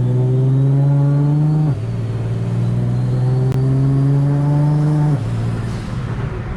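Car engine accelerating hard. Its pitch climbs steadily and drops sharply at two upshifts, about 1.7 seconds in and again about 5 seconds in.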